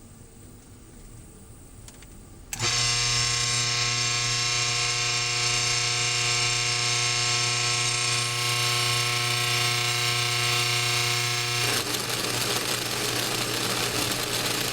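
Washing-machine motor converted into an ER16-collet CNC spindle, starting abruptly a couple of seconds in and running at steady speed with a whine. Near the end the whine gives way to a rougher, noisier running sound.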